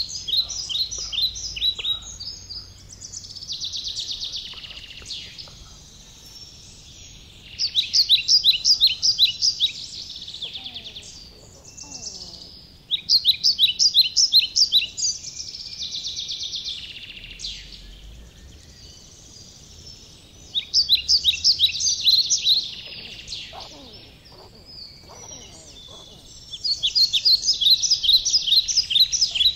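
A songbird singing nearby: five phrases of fast, high, repeated notes, about six seconds apart, each trailing off into a softer buzzy rattle.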